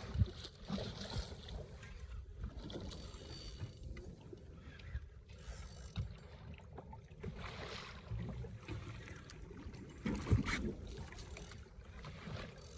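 Fishing reel being cranked with scattered mechanical clicks as line is wound in on a hooked tarpon, over a steady low rumble of water and wind around the boat.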